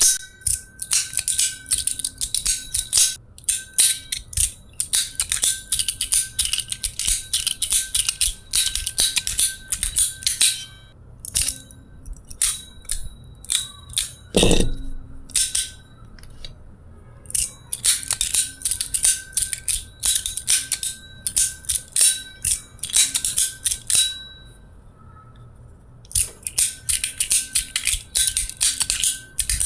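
Metal card-pusher fidget sliders being pushed back and forth, making rapid, dense metallic clicking and snapping with a faint ringing. The clicking pauses for a couple of seconds near the end, and there is one duller knock about halfway through.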